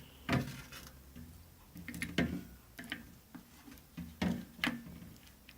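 Small plastic toy figures clicking and tapping against a plastic toy boat as they are handled and set in place: about six sharp, irregular clicks.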